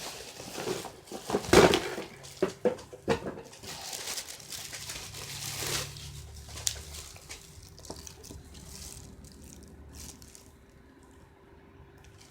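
Bixler hand-held hair dryer running, its airflow gusting irregularly with clicks and one loud knock about a second and a half in, then quieter after about six seconds with a faint steady hum.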